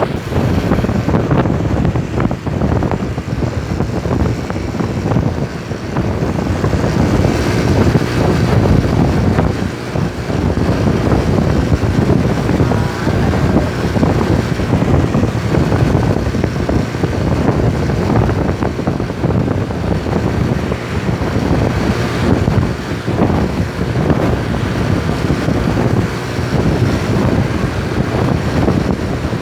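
Heavy wind buffeting the microphone over the steady rumble of a moving truck.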